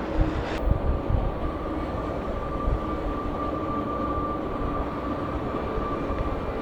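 Jet airliner engines: a low, uneven rumble, with a steady high whine that comes in about half a second in and holds.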